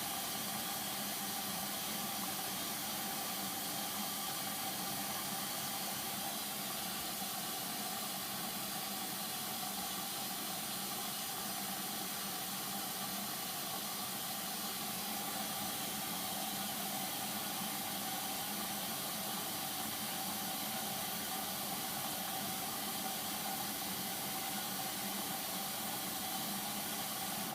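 Steady, even rushing hiss with a few faint steady tones underneath, cutting off suddenly at the end.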